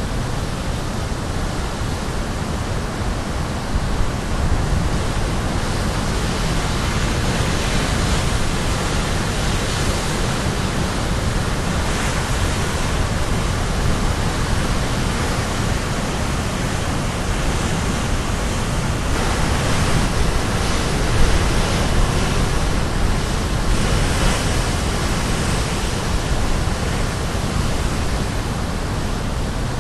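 Caribbean Sea surf breaking on a rocky shore: a continuous rushing wash of waves with a heavy low rumble, swelling slightly louder a few times, around the middle and again in the last third.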